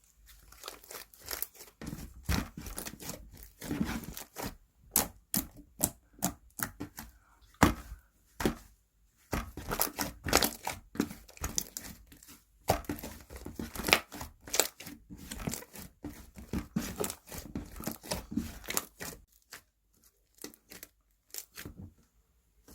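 Slime being squished, pressed and stretched by hand, giving many quick, irregular sharp pops and squelches as air pockets burst, with a few short pauses.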